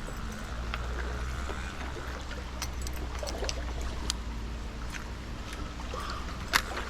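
Mountain stream flowing steadily, with a low rumble under it and a scattering of sharp clicks and taps, the loudest one about six and a half seconds in.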